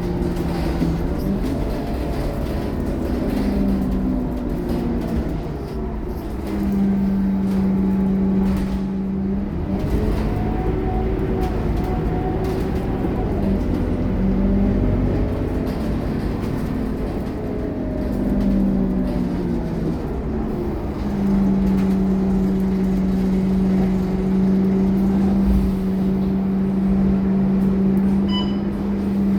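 Diesel engine of a Scania K230UB Euro 4 city bus running, its pitch rising and falling repeatedly as the bus pulls away and changes gear, with long steady stretches in between. A brief high beep sounds near the end.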